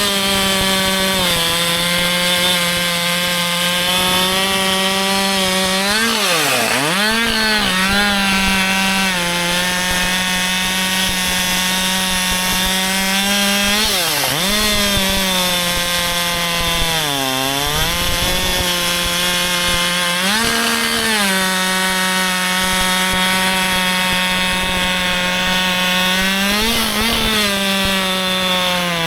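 Husqvarna 564 XP two-stroke chainsaw running at high revs while cutting wood, the engine note held steady under load. Several times it dips sharply in pitch and recovers, about six seconds in, around fourteen and seventeen seconds, with shorter rises near twenty and twenty-seven seconds.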